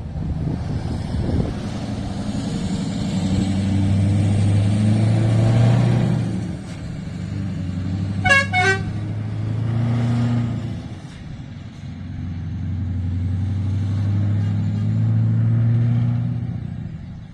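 Scania V8 truck engine running, its deep drone swelling and fading several times. Two short horn toots sound about eight seconds in.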